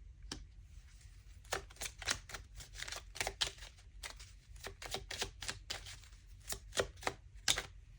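Tarot cards being handled: a run of irregular light clicks and card flicks, over a faint low hum.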